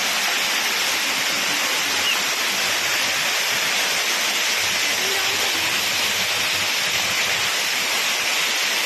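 Floodwater pouring steadily into an underground metro station after heavy rain, a constant loud rushing. Faint voices show through it.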